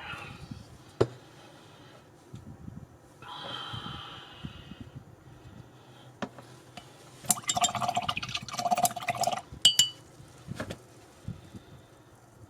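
Paintbrush being swished in a glass water jar and tapped against its rim, giving liquid swishing and several short glassy clinks, busiest a few seconds before the end, with a single sharp click about a second in.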